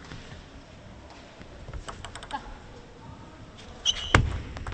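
Celluloid-type table tennis ball clicking sharply off the table and bats in a scattered series of taps, with a short high squeak about four seconds in and a louder knock just after it.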